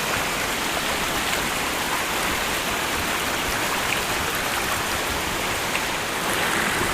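Steady rush of water from a waterfall, a dense even hiss of falling and splashing water.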